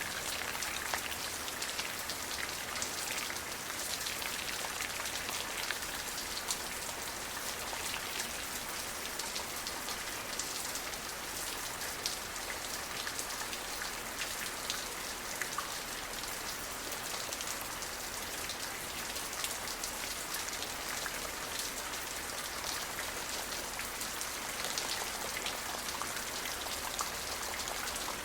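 Steady rain falling, with dense pattering of drops on a surface.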